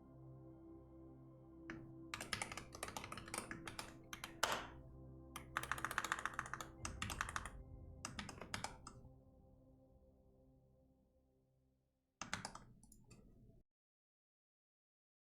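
Typing on a computer keyboard in several quick bursts of key clicks over soft ambient music. A last short burst comes about twelve seconds in, then the sound cuts off to silence.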